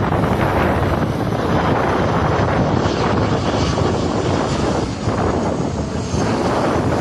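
Airliner on final approach passing close by: its engines make a loud, steady rushing noise with no break.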